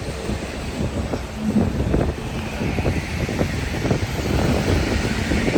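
City street traffic: vehicles passing with a steady rumble and scattered knocks, a hiss rising about halfway through.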